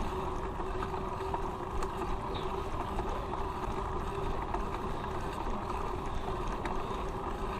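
Steady rush of wind over the microphone with the rolling noise of a bicycle being ridden.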